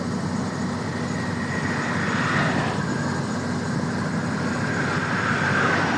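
Steady running of a heavy vehicle's engine with road noise, with a higher whine that swells about two seconds in and again near the end.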